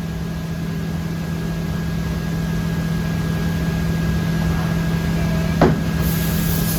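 Steady low hum of shop machinery running through a CNC changeover, with one sharp knock a little before the end followed by a hiss of air.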